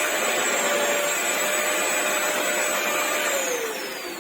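Vacmaster SCA0801 carpet cleaner's vacuum motor running at full suction with a steady whine. About three seconds in it is switched off and the whine falls away as the motor spins down.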